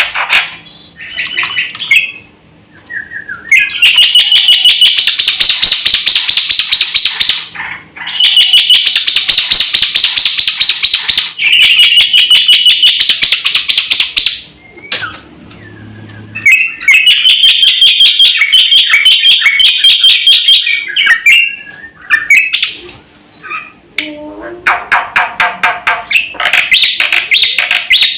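Black-winged myna (jalak putih) singing loudly in long runs of rapid, repeated high notes, with brief pauses between the runs.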